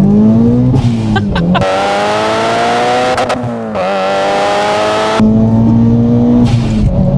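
Turbocharged 2-litre 4G63 four-cylinder of a modified Mitsubishi Lancer Evolution 7 under hard acceleration, revs climbing, dropping at gear changes about a second in and again about three and a half seconds in, then climbing again. Near the end the engine note holds steadier at lower revs.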